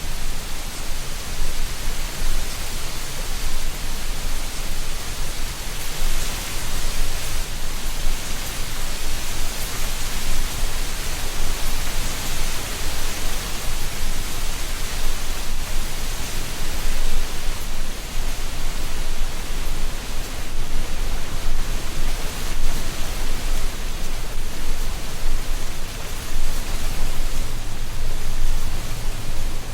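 Wind blowing steadily through a tree canopy, the leaves rustling in a dense hiss that swells and eases gently.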